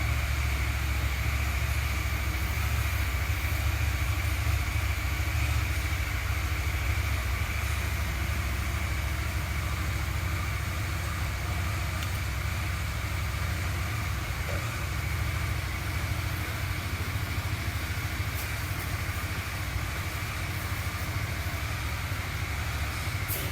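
Husqvarna 701 Supermoto's single-cylinder engine idling steadily.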